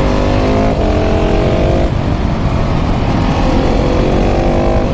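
KTM 690 SMC R's LC4 single-cylinder engine through a full LeoVince exhaust, pulling under acceleration with the revs climbing, its note breaking about one and two seconds in, over heavy wind rumble on the microphone.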